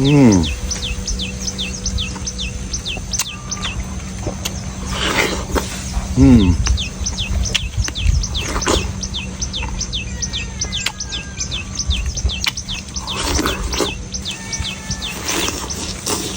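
A small bird chirping rapidly and steadily, about four or five short falling chirps a second, over a steady low hum. A few short noisy bursts break in now and then.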